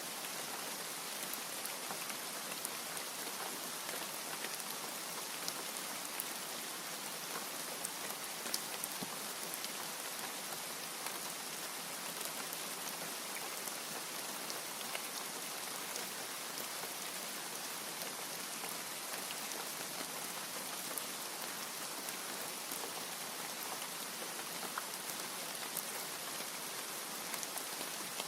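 Steady rain, with sharp individual drop ticks now and then over an even hiss.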